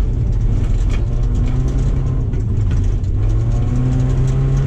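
2007 Subaru Impreza's flat-four boxer engine running hard while racing on an ice track, its pitch holding fairly steady with slight rises and dips.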